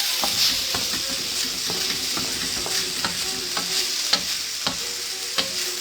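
Chicken and vegetables sizzling in a hot pan, with a utensil clicking against the pan about twice a second as the food is stirred.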